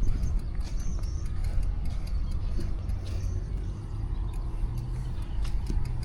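A bicycle clicking and rattling as it rides, with many small irregular ticks from its drivetrain and frame over a steady low rumble of wind and traffic.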